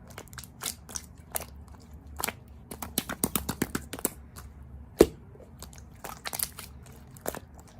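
Close-up eating sounds: a person biting and chewing crunchy food, with irregular crisp crunches that come thickest about three seconds in and one sharp crack about five seconds in.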